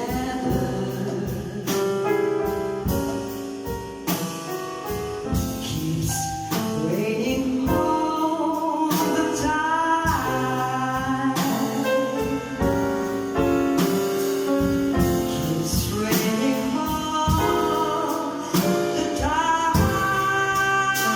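A song sung with instrumental accompaniment, the voice holding and sliding between long notes.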